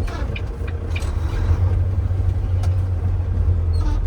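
Tractor-trailer's diesel engine running with a steady low rumble while the truck moves through a left turn.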